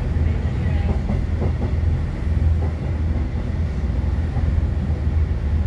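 Running noise of a moving passenger train heard from inside the carriage: a steady low rumble of wheels on the track.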